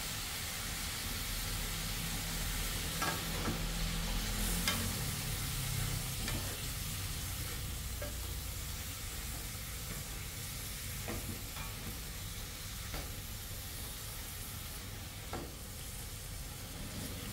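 Chopped vegetables sizzling steadily as they are sautéed in oil in a metal pan, stirred with a wooden spatula that scrapes and knocks lightly against the pan every second or two.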